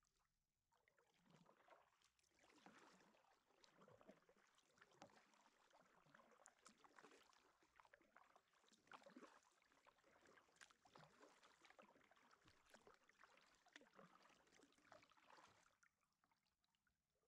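Faint kayak paddle strokes: water splashing and dripping off the paddle blades in uneven surges, with small clicks. It starts about a second in and stops about a second before the end.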